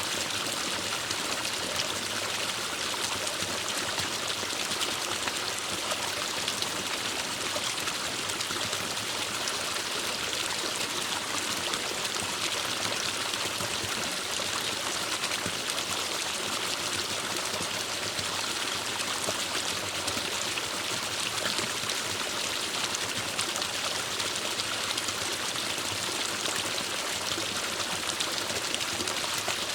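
Forest stream flowing and splashing over rocks, a steady, even rush of water.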